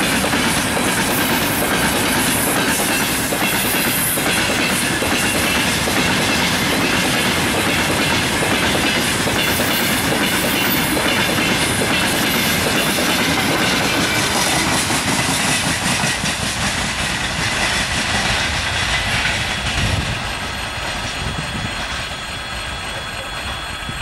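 Freight train of open gondola wagons and tank cars rolling past: a steady loud rumble and clatter of wagon wheels on the rails. It eases off and drops at about 20 seconds in as the last wagons pass and move away.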